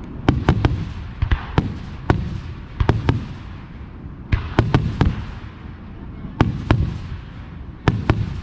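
Aerial fireworks bursting in a rapid series of sharp bangs, often two or three close together, each followed by a low rumbling echo.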